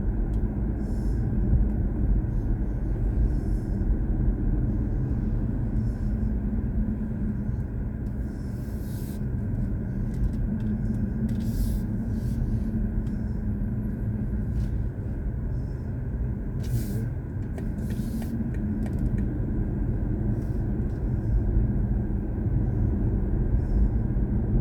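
Steady low road and tyre rumble from a BMW i4 M50 electric car cruising at an even, moderate speed, with no engine note.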